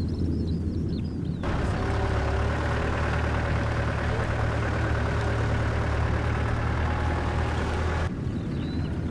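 Off-road vehicle's engine running at low revs, a steady low hum, with birdsong over it at the start and near the end. For about six seconds in between, a loud even hiss of noise covers the birds; it starts and stops abruptly.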